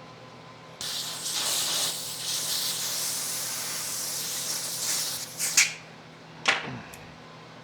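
Pressurized gas spraying hard from a nozzle in a steady hiss for about five seconds, then two short sharp blasts, the last with a quick falling tone.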